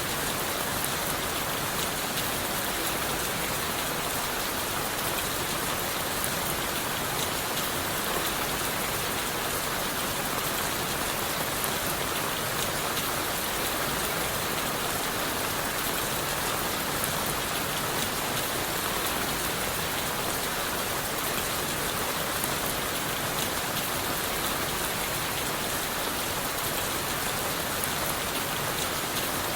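Steady rain falling on leaves, wood and the forest floor: an even hiss with a fine patter of drops that does not change.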